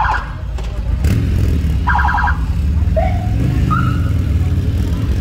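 Low engine and exhaust rumble from a slow-passing Chevrolet Camaro, getting louder about a second in. Short rapid-pulsed electronic siren chirps sound twice, at the start and about two seconds in, followed by a couple of brief rising siren tones.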